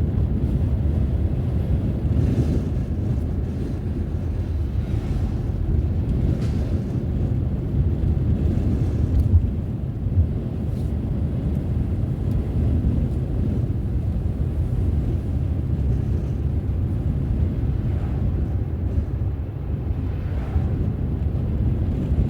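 Car driving along a road: steady low rumble of tyre, engine and wind noise.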